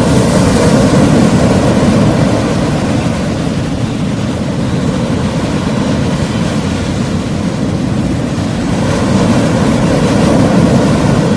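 Ocean surf: waves breaking and washing on the shore, a continuous low rush with wind buffeting the microphone. It swells louder near the start and again near the end.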